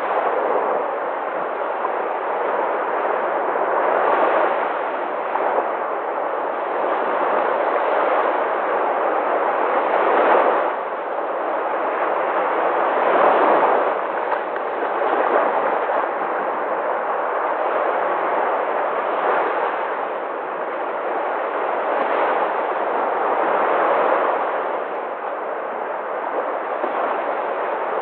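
Sea waves breaking and washing in as a continuous surf, swelling louder as a wave breaks every few seconds.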